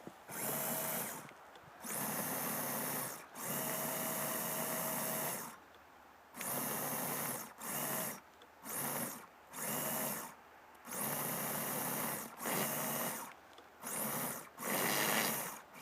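Brushless electric motor and drivetrain of an RC scale truck whining in about eleven short throttle bursts, some up to two seconds long, as the truck sits stuck in deep snow and spins to break free.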